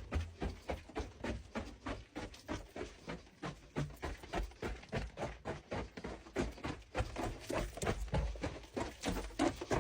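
Rapid, evenly spaced knocking, about four to five strikes a second.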